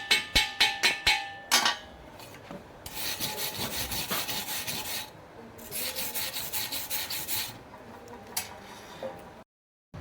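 A hammer tapping steel at a quick steady pace of about three or four ringing strikes a second, stopping about a second in. Then two spells of fast rasping strokes on metal, like a wire brush or file scrubbing the weld.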